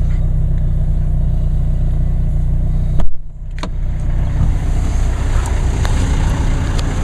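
Diesel car engine idling cold in fast idle mode, a steady low hum. About three seconds in a single sharp thump cuts across it, and the hum drops briefly before building back.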